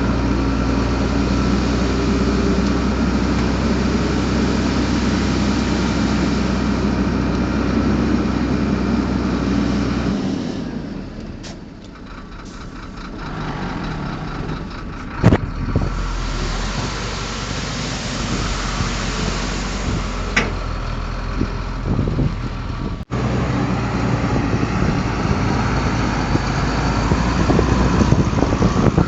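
Heavy diesel engine of earthmoving machinery running steadily. It eases off for a few seconds about ten seconds in, with a sharp knock about fifteen seconds in, then runs on.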